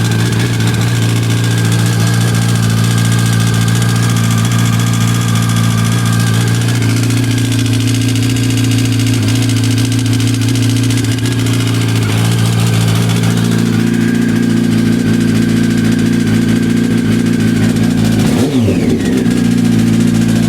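Yamaha YZF-R1 (5VY) inline-four motorcycle engine idling steadily with a rattle or knock whose cause the owner cannot place. Engine speed changes briefly near the end.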